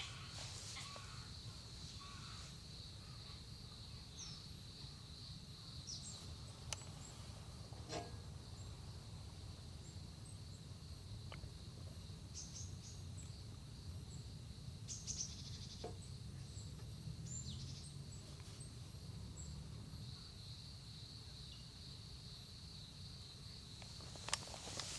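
Quiet outdoor ambience: a steady high insect trill that fades in the middle and comes back near the end, with scattered short bird chirps and a low steady rumble underneath.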